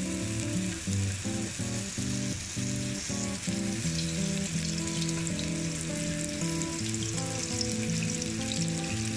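Beef burger patty sizzling in oil on the ribbed plate of an electric contact grill, with oil being drizzled over it. Background music with changing held notes plays throughout.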